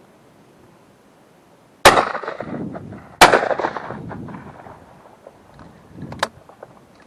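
Two shotgun shots about a second and a half apart, each with a rolling echo that fades over a second or two; a sharp click near the end.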